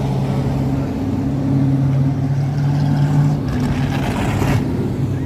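Thunder Truck race truck engine running hard at a steady pitch that edges up about two to three seconds in, with a brief rush of noise around four seconds in.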